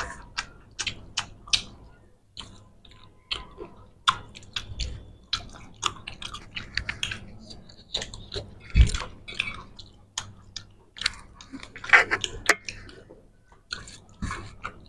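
Close-up eating sounds of people eating fish curry and rice by hand: wet chewing and lip smacks with many small irregular clicks, fingers working rice on steel plates, and one dull knock about nine seconds in.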